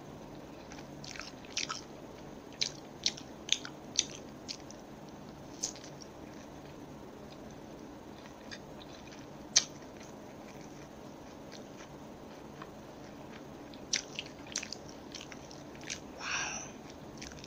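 Close-miked chewing of a crispy fried chicken nugget: irregular sharp crunches and clicks, busiest in the first few seconds and again near the end.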